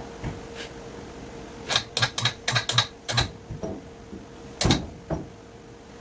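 A quick run of sharp clicks and knocks, about a dozen in a second and a half, then two heavier knocks near the end, over a faint steady hum.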